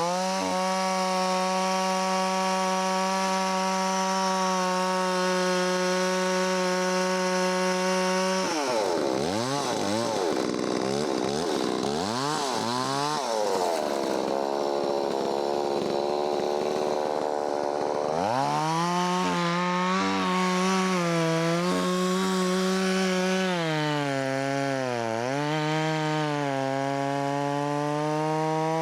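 Holzfforma 660 clone two-stroke chainsaw revving up to full throttle and holding steady for several seconds. About a third of the way in the engine speed falls and surges up and down for several seconds. It then climbs back up and runs with repeated dips in speed, typical of the saw loading down as it cuts through wood.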